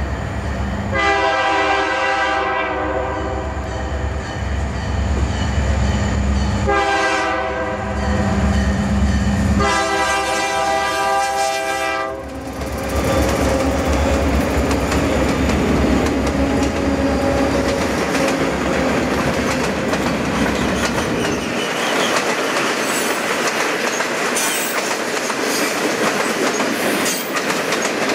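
Diesel freight locomotive's air horn sounding three blasts for a grade crossing, the middle one shorter and the last held longest, over heavy engine rumble. The locomotives then pass with a deep diesel rumble, and freight cars follow, clattering over the rail joints with some high wheel squeal near the end.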